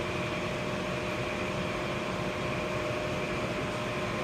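Daikin two-stage gas furnace running steadily: an even whir of its motors with a faint steady hum.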